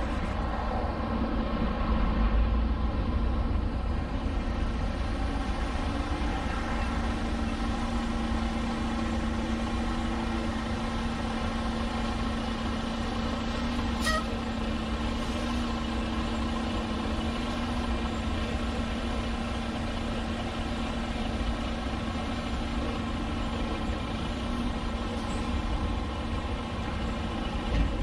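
Semi truck's diesel engine running steadily at low revs while backing slowly, with a steady hum over a deep drone and one short click about halfway through.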